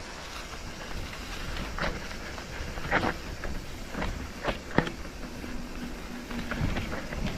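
A vehicle being ridden over a rough track: a steady low rumble with scattered knocks and rattles about once a second.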